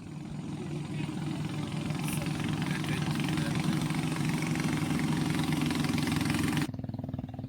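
River boat's engine running steadily, with a loud hiss of rushing air and water over it; near the end it drops suddenly to a quieter engine sound.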